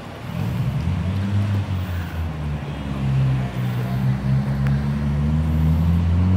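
A car engine close by, running with a steady low hum that comes in suddenly just after the start, then rising slowly in pitch near the end as the vehicle speeds up.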